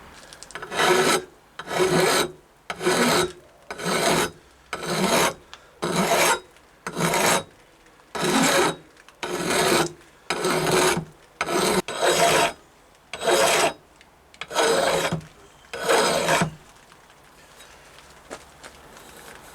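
A hand file rasping across the top of a steel hatchet head in about fourteen strokes, roughly one a second, then stopping near the end; it is taking the dings and scrapes out of the head and reshaping it.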